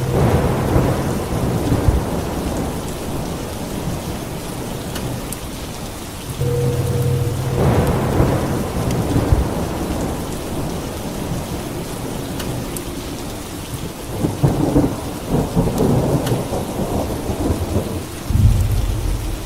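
Steady heavy rain with rolling thunder: three long rumbles swell and fade, one at the start, one about eight seconds in and a broken, crackling one from about fourteen seconds in.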